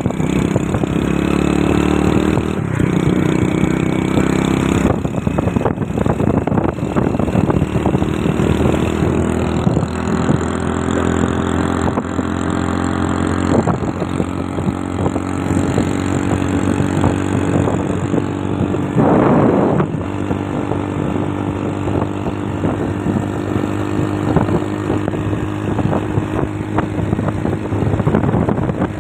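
Motorcycle engine running steadily at a fairly even speed, its note drifting gently up and down, with a brief rush of noise about two-thirds of the way through.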